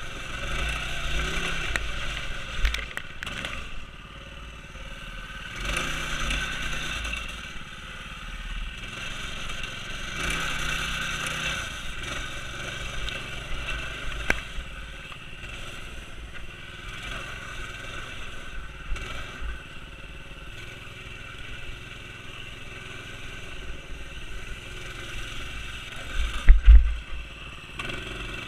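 Minibike's single-cylinder Predator engine revving in repeated surges and easing off while riding through mud, with scraping and clattering. A loud low thump or buffet comes near the end.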